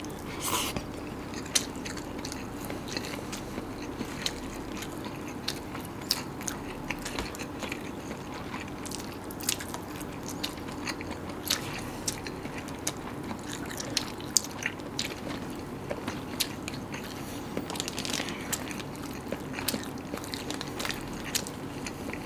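Close-up eating sounds of rice and side dishes: chewing and biting with frequent irregular crisp crunches and mouth clicks.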